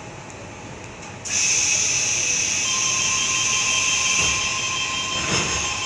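Sydney Trains Tangara carriage at the end of its platform stop: a loud hiss starts suddenly about a second in, and a steady tone joins it soon after, as the doors close and the train gets ready to leave.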